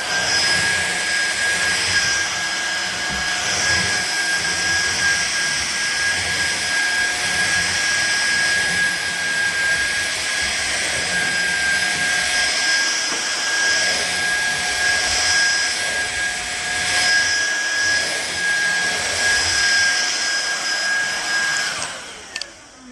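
Fieety cordless stick vacuum running steadily with a high-pitched motor whine over a loud rush of air. Near the end it is switched off and the motor spins down with a falling whine.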